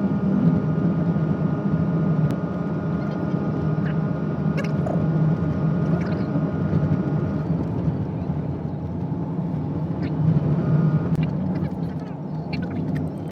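Car driving on a snow-covered road, heard from a dashcam inside the cabin: a steady low engine and tyre hum with road noise. A thin, faint high tone runs through the first half, and there are a few faint clicks.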